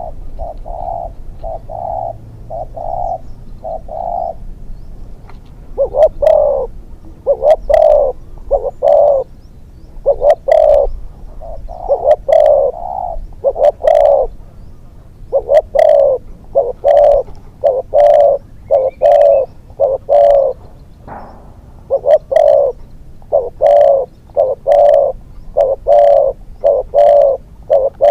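Spotted dove cooing in a long run of short, repeated coo phrases, fainter for the first few seconds and louder from about six seconds in.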